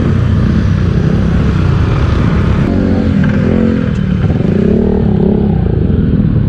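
Motorcycle engine running while being ridden, a dense low rumble, with a few shifts in engine pitch about midway.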